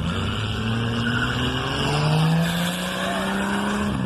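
Car engine accelerating, its pitch rising steadily and growing louder to a peak a little past the middle.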